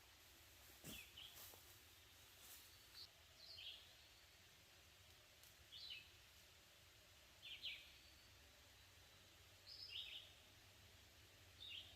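A bird calling faintly outdoors: a short, high call that drops in pitch, repeated about every two seconds, over a low steady background hum.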